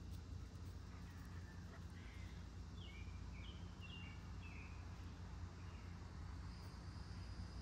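Outdoor ambience with a bird singing a run of quick chirping notes, each dropping in pitch, from about two to five seconds in, over a steady low hum. A thin high steady tone comes in near the end.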